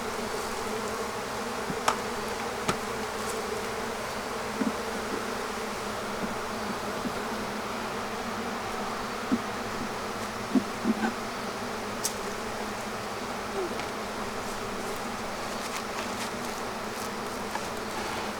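Honeybee colony in an open hive buzzing loudly and steadily: the agitated hum that the beekeeper takes as the sign the bees are about to boil up over the frames. A few sharp clicks sound over the buzzing.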